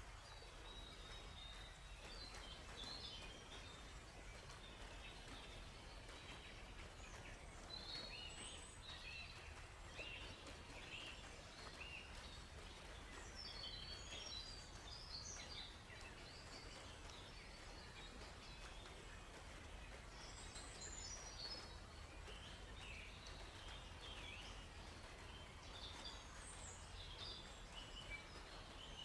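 Faint forest ambience: several songbirds chirping and trilling in short, scattered phrases over a steady low rush of flowing water.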